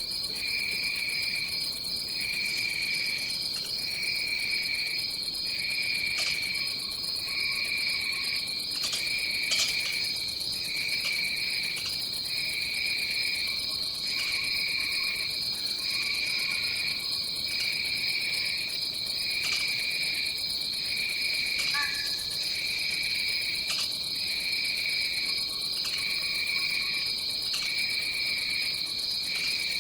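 Rainforest insects chirring: one unbroken high drone, and under it a second chorus that pulses about once a second.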